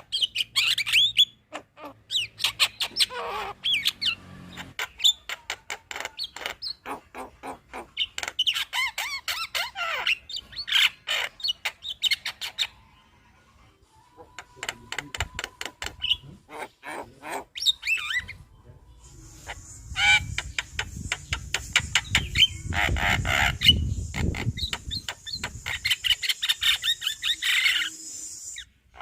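Javan myna chattering loudly: fast runs of sharp clicks, short whistles and harsh squawking notes, breaking off briefly about halfway through. In the second half a steady high hiss and a low rumble lie under the calls.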